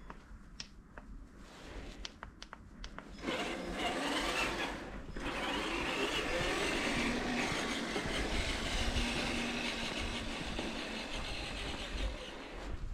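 Electric RC truck driving off: a few light clicks, then about three seconds in its motor and geared drivetrain start a steady whirring whine, with a brief dip, that runs until near the end.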